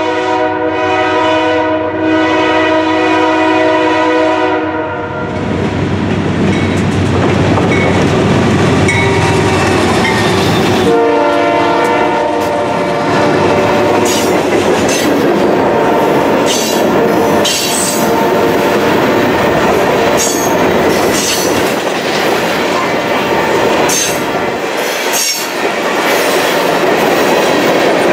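Freight train horn sounding a long chord as the train approaches, cutting off about five seconds in, then a shorter blast about eleven seconds in. Then a long line of freight cars, tank cars and hoppers, rolling past close by, with steady wheel noise and repeated clicks of wheels over rail joints.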